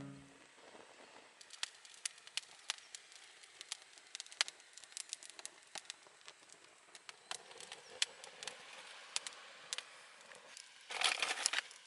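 Wood campfire crackling, with scattered sharp pops and snaps at irregular intervals over a faint hiss. A short, louder burst of crackling or rustling comes near the end.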